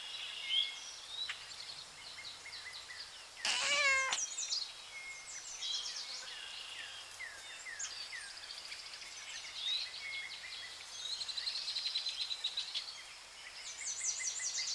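A kitten meows once, about three and a half seconds in, over a background of small birds chirping throughout.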